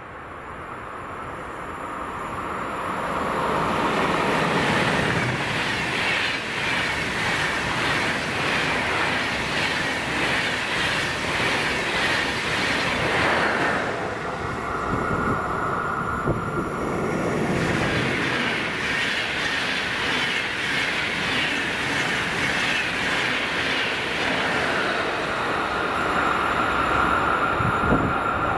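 Electric train running past on the rails, a loud rolling noise of wheels on track that builds over the first few seconds and dips briefly about halfway. A thin steady high whine sounds over it twice.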